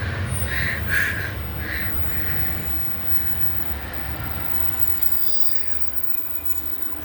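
Diesel multiple-unit train running through the station with a steady low rumble. The wheels squeal briefly a few times in the first two seconds, then the sound slowly dies away as the train moves off.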